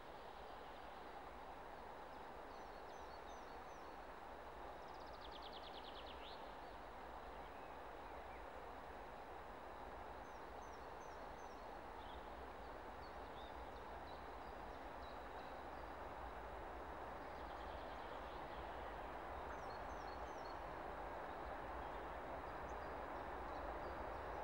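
Distant approaching ET22 electric freight locomotive hauling coal wagons: a steady rumble that grows slowly louder. Small birds chirp throughout, with a fast trill about five seconds in.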